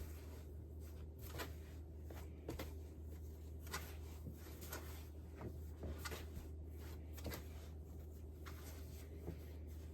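Faint, scattered taps, clicks and rustles of sourdough being handled and shaped on a kitchen counter, over a steady low hum.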